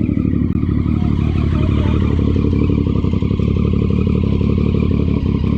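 Motorcycle engine running loudly, its rapid firing pulse held at a steady pitch.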